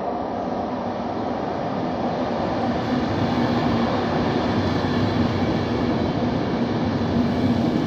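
Class 390 Pendolino electric train approaching on the line, its running noise growing steadily louder, with a steady low hum.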